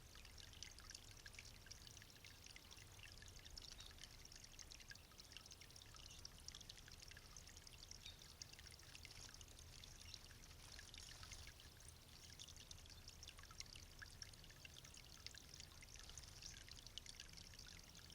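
Faint, steady trickling and splashing of water from a small garden fountain.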